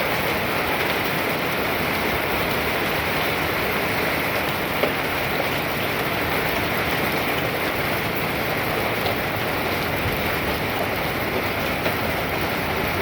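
Hailstorm pelting down: a steady dense patter of rain and hailstones, with a few louder single knocks of stones striking.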